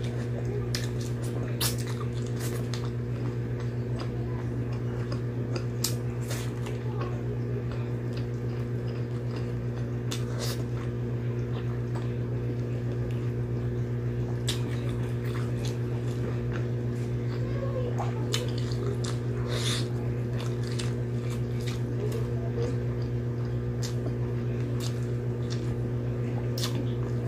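Close-up eating sounds: wet chewing, lip smacks and scattered sharp mouth clicks from a person eating stewed pork and grilled fish by hand. A steady low hum runs underneath.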